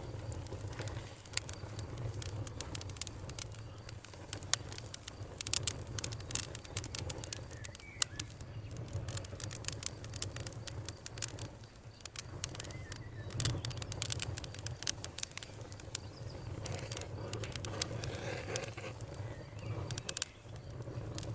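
Campfire of burning wood crackling, with frequent irregular sharp pops and snaps over a steady low rumble.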